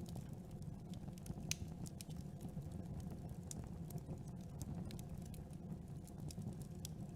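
Campfire burning: a steady low rumble with scattered, irregular sharp crackles and pops of burning wood, one louder pop about a second and a half in.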